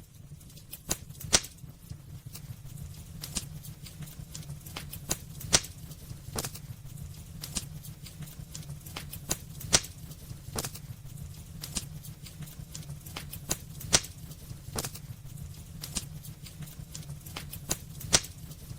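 Wood fire burning in a fireplace: quick, irregular crackles and small pops over a steady low rumble, with a louder sharp snap about every four seconds.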